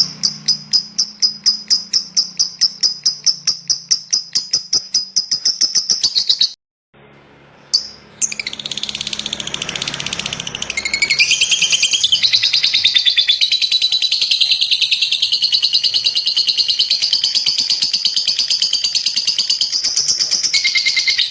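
Lovebird chattering: a fast run of evenly repeated high chirps, a brief break about six seconds in, then a long unbroken rapid trill, the extended 'ngekek' chatter prized in competition lovebirds.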